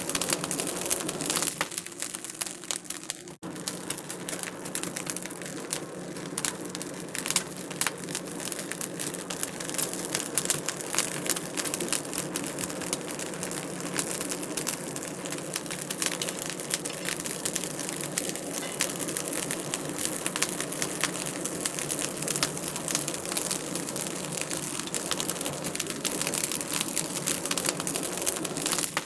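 Wood fire crackling in a fireplace: a dense, steady run of small sharp pops and crackles over a soft hiss, with one momentary break about three seconds in.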